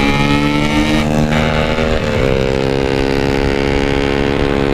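Yamaha RX-King 135cc single-cylinder two-stroke motorcycle engine running under throttle on the move, its pitch climbing slowly, then changing suddenly about two seconds in and holding steady.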